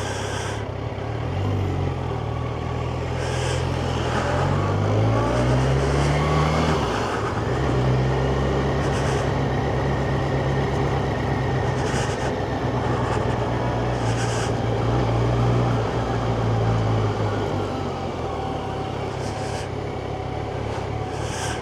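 Yamaha FZ1's inline-four engine under way, over a steady rushing noise. The engine climbs in pitch a few seconds in, holds a steady note for most of the stretch, and eases off near the end.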